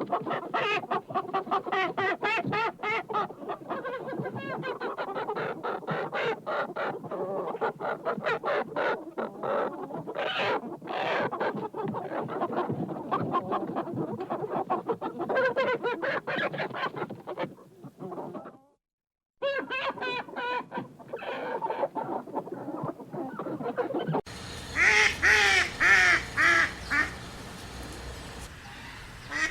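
Chickens clucking busily and continuously, with a brief break about two-thirds of the way in. Near the end a cut brings in a run of louder, evenly repeated calls from another bird.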